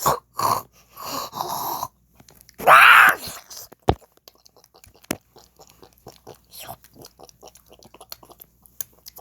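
A child making weird mouth and voice noises: breathy hissing blows, then one loud voiced cry about three seconds in, followed by a long run of small clicks and smacks.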